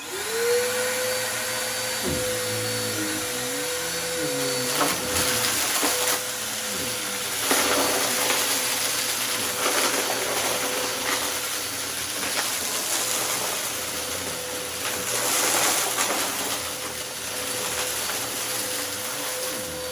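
Upright vacuum cleaner running with a steady motor whine that climbs back up to speed in the first second, with bursts of crackling as it sucks up dry mess-test debris from the rugs.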